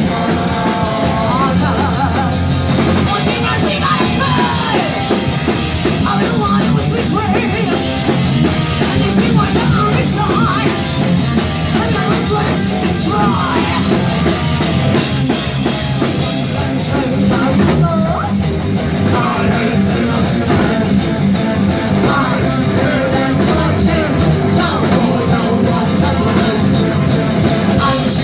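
Punk rock band playing live and loud: electric guitar, bass and drums, with a voice singing or yelling over them.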